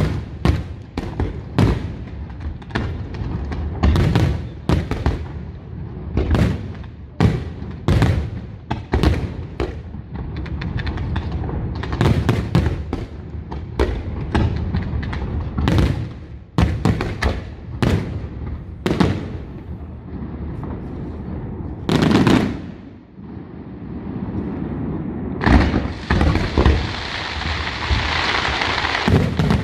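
Aerial fireworks shells bursting in quick, irregular succession, sharp bangs over deep booms. Near the end a dense, continuous crackle sets in.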